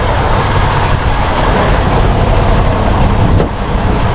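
Steady, loud rumble of a parked semi truck's diesel engine running, with a brief dip about three and a half seconds in.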